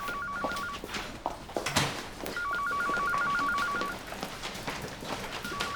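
An electronic two-tone trill ringing in repeated bursts about a second and a half long, a pause between each, like a phone's ringer or an equipment alarm.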